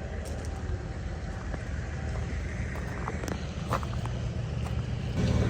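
A steady low engine rumble, growing louder about five seconds in, with a few light clicks.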